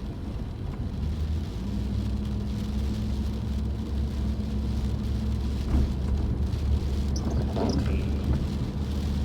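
Car cabin noise while driving: a steady low engine and road hum, with a faint steady tone that comes in about a second and a half in.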